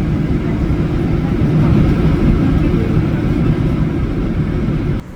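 Train running with a loud, steady low rumble that cuts off abruptly about five seconds in.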